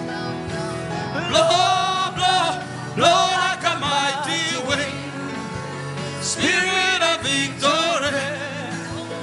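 Worship music: a voice singing long, wavering phrases over sustained keyboard-like chords.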